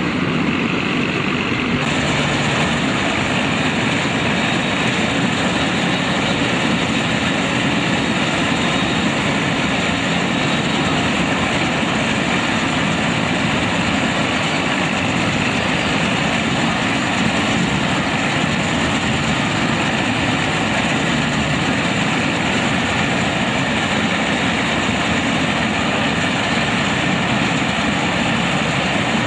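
Same tractor-based 4WD Shamsher combine harvester running steadily and loudly: engine and machinery noise with no let-up, a higher hiss joining about two seconds in.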